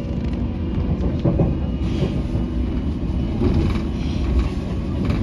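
London Underground train running at speed, heard from inside the carriage: a steady low rumble of the wheels on the rails, with a few brief clacks.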